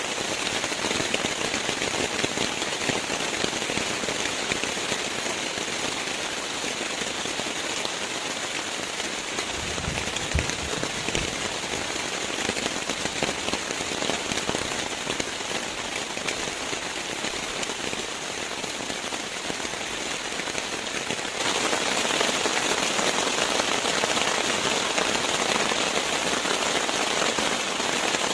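Steady rain pattering densely on a surface, with a brief low rumble about ten seconds in; the rain grows louder about three quarters of the way through.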